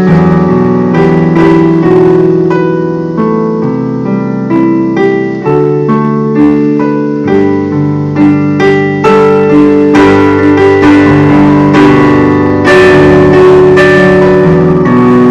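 Piano playing a slow melody over held chords, each note struck and left to ring.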